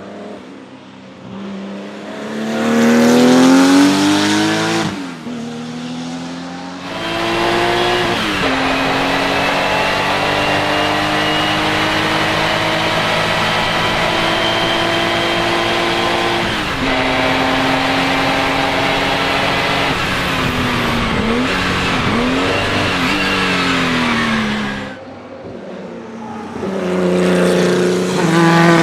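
Porsche 935 K3 race car's turbocharged flat-six engine under hard acceleration, the revs climbing and dropping at gear changes. A long steady high-rev stretch is followed by several quick up-and-down rev changes about two-thirds in, and the revs climb again near the end.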